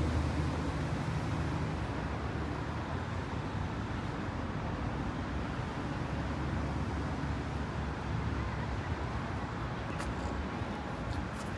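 Steady low outdoor rumble like road traffic, with a few faint clicks near the end.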